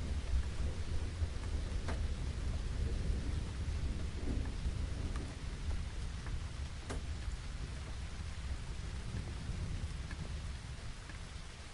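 Steady rain with a low, rolling rumble of distant thunder that slowly dies away over the second half, and a few sharp drips close by.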